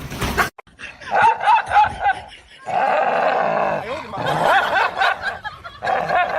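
People laughing in a run of high-pitched giggles, after a short noisy burst right at the start.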